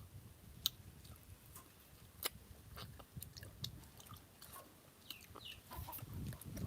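Someone chewing rambutan flesh: soft wet mouth sounds with scattered faint clicks.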